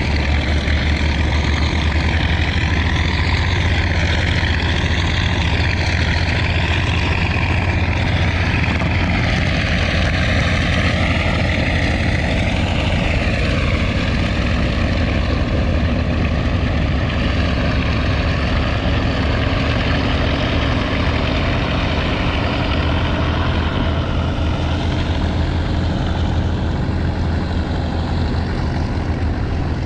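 Martin Mars flying boat's Wright R-3350 eighteen-cylinder radial engines running steadily, with the drone of their propellers, the pitch of the upper tones slowly wavering.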